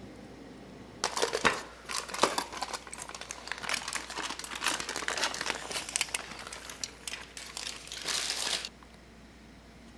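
A crinkly sheet of wrapping or paper being crumpled and handled. There is dense crackling from about a second in that stops abruptly near the end.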